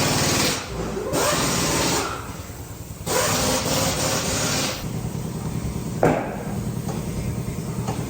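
Power tool running in about four short bursts of a second or two each, with pauses between.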